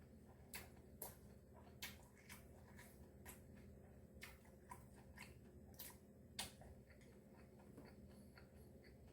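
A person chewing food, faint irregular wet clicks and smacks of the mouth, coming thickest in the first six or so seconds and then thinning out.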